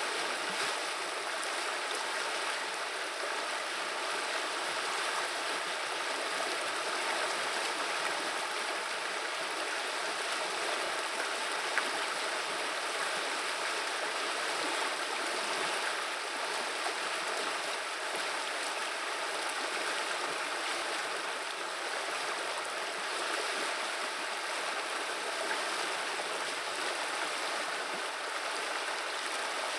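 River water running over stones in a steady, even rush and babble.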